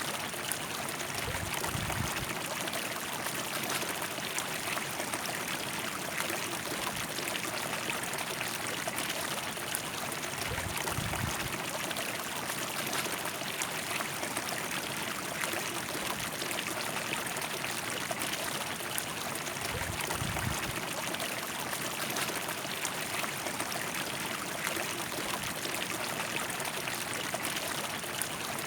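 River water flowing and rushing in a steady, even stream, with a few brief low rumbles underneath.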